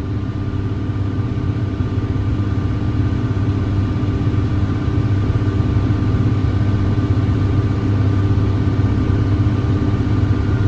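John Deere 7410 tractor's diesel engine running steadily under load while pulling a round baler, a constant low hum.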